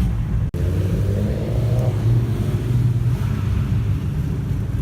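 Low, steady rumble of car engines running, with the sound cutting out for an instant about half a second in.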